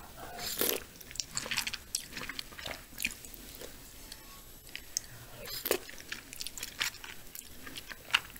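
Close-miked eating sounds: wet chewing and lip smacks as spoonfuls of spicy braised chicken stew (dakbokkeumtang) are eaten, a scatter of short, sharp clicks and smacks with the busiest burst about half a second in.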